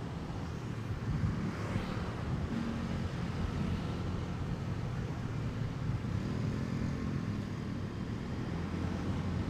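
Motorcycle engine running at a steady, moderate speed while riding, with an even rush of wind and road noise on the microphone.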